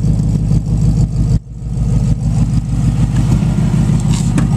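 Supercharged V8 of a 2002 Ford F-150 Harley-Davidson idling steadily through its side-exit exhaust, with a deep, even pulse. The sound cuts out briefly about a second and a half in, then comes back.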